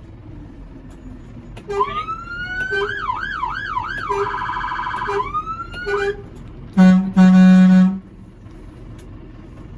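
Fire engine's siren sounding through its tones: a rising wail, quick up-and-down sweeps, a fast warble and another rising wail. Then two blasts of the air horn, a short one and a longer one, which are the loudest part.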